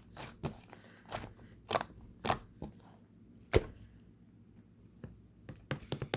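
Irregular crisp clicks and crunches, several a second, with a short lull about two-thirds of the way through.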